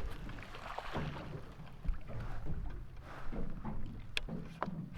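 Wind and water noise on a small fishing boat, with a low rumble throughout and two sharp clicks about four seconds in.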